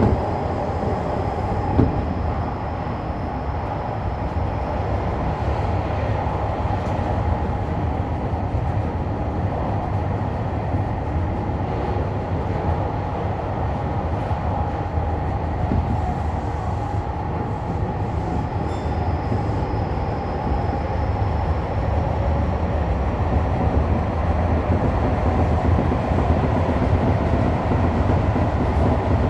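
Tokyo Metro Fukutoshin Line express train running at speed, a steady rumble of wheels and motors heard from the front car. A faint high-pitched squeal comes in near the start and again about two-thirds through, and there is a single click about two seconds in.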